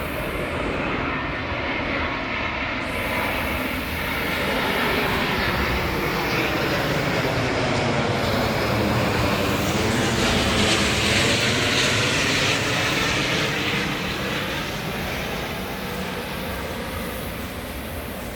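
Airbus A350-941 airliner's Rolls-Royce Trent XWB jet engines flying over on approach to land. The jet noise builds to a loud peak about two-thirds of the way through, sweeping in pitch as the aircraft passes overhead, then slowly fades.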